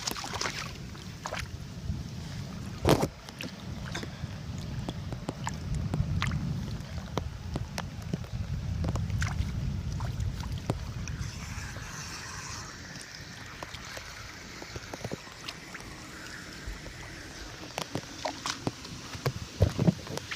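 Rainwater draining into a sewer, gurgling and sloshing with a low rumbling wash that swells for several seconds, with scattered sharp knocks and clicks over it.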